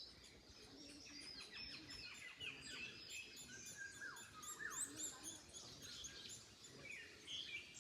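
Several small birds chirping and singing at once, a busy mix of short high notes and quick falling whistles, over a faint background hiss.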